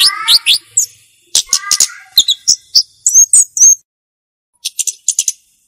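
Flowerpecker calling: a rapid string of sharp, high chirps and ticking notes with quick pitch sweeps. There is a short pause about two-thirds through, then a fast run of dry clicks near the end.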